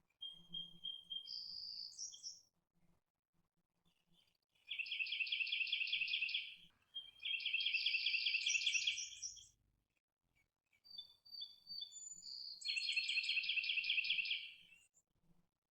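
Red-headed woodpecker calling: three loud, rapid rattling calls of about two seconds each, with shorter clear whistled notes near the start and shortly before the last rattle.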